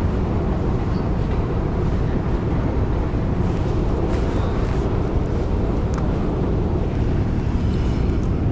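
Steady low rumble of city traffic, with faint high tones a little after four seconds in and again near the end.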